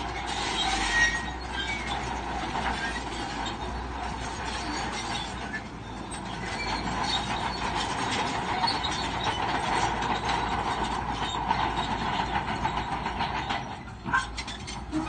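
Shantui crawler bulldozer working, its diesel engine running under a continuous clatter and squeal of steel tracks, with a brief lull and a couple of sharp knocks near the end.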